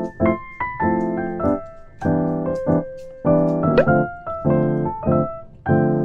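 Background music: piano chords struck in a bouncy, steady rhythm.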